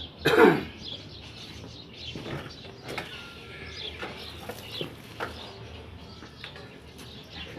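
Small birds chirping repeatedly, with one loud, short sound falling steeply in pitch about half a second in.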